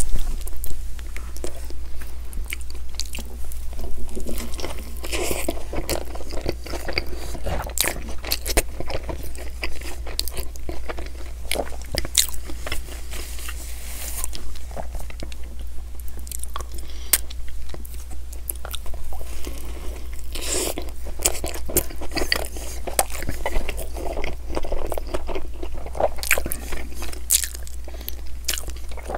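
Close-miked chewing and biting of a McDonald's breakfast sandwich: soft wet chews with many irregular mouth clicks and smacks, over a steady low hum.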